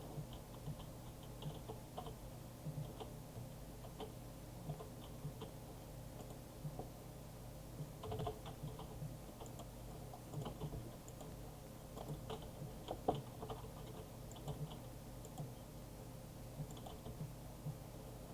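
Irregular light clicks and ticks, a few a second and unevenly spaced, over a steady low hum.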